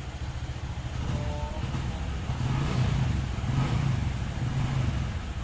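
Honda Vario 125 scooter's single-cylinder engine running, growing louder about two seconds in as it is revved, then easing near the end.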